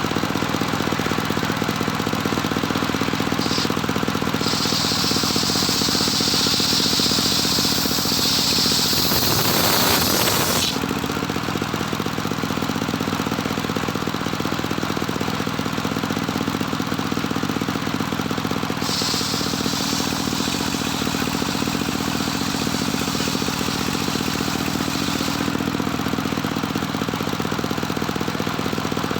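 Engine-driven homemade circular saw running steadily, its blade cutting through wood twice: from about four to ten seconds in, and again from about nineteen to twenty-five seconds in. The first cut grows loudest just before it ends.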